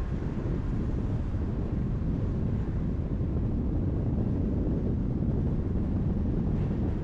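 Steady road noise of a car driving on a highway: a low, even rumble of tyres and wind.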